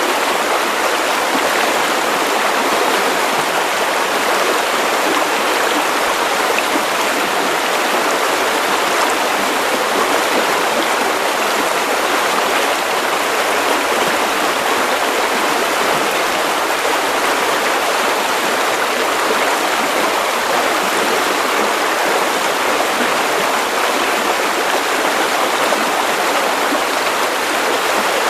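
Steady white-noise hiss, even and unchanging, with little deep rumble.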